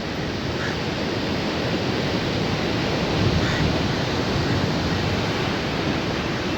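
Sea surf washing onto the beach, a steady rushing noise that swells a little midway.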